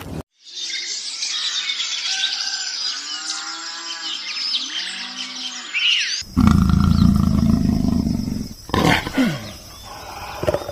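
Animal calls in two clips: about six seconds of many high chirping calls with a few lower pitched calls beneath, then, after a sudden cut, a loud low growling sound with short falling calls.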